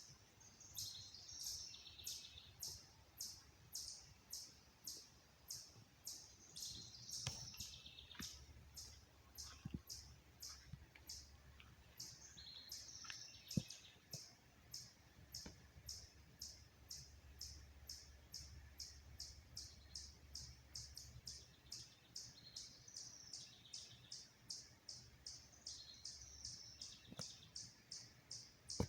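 A bird chirping over and over, short high chirps at about two to three a second without pause, with a brief lower trill now and then. A few sharp clicks break in, the loudest about halfway through.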